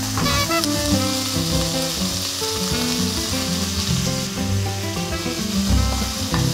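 Vegetables frying in oil in a frying pan, a steady sizzling hiss, over background music.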